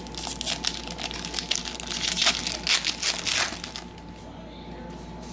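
Foil wrapper of a Topps Chrome trading-card pack crinkling as it is torn open and the cards are handled, a dense crackle that stops about two-thirds of the way through.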